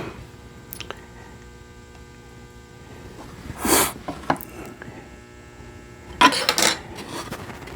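Steady electrical hum with a few light clicks and short scraping or rustling noises, one about three and a half seconds in and a cluster around six seconds in.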